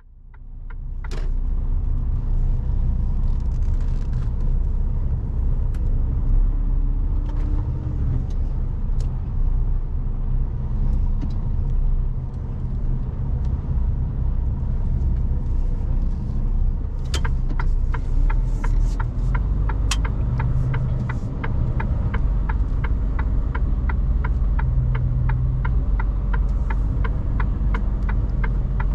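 Mercedes-Benz Actros truck running, heard from inside the cab as a steady low rumble. Past the middle a regular ticking starts, about two ticks a second.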